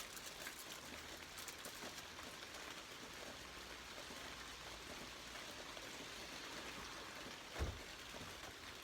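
Steady hiss of rain falling, with a few light drip ticks, and a single dull low thump near the end.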